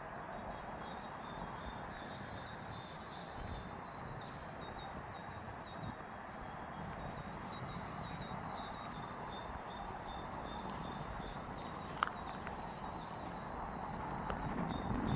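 Small birds chirping in short repeated calls over a steady outdoor background hum, with a single sharp click about twelve seconds in.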